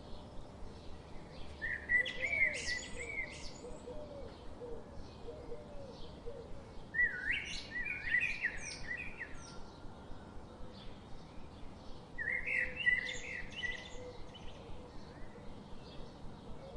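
Small birds chirping and chattering: a steady run of faint short chirps, with three louder bursts of quick warbling notes.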